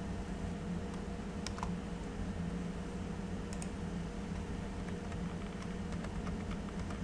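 Scattered clicks from a computer keyboard and mouse, a few seconds apart, with a double click about halfway through and a few quicker ones near the end, over a steady low electrical hum.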